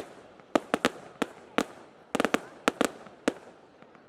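Fireworks going off: a rapid, irregular run of sharp bangs, about a dozen in four seconds, some in quick clusters, each with a short echoing tail.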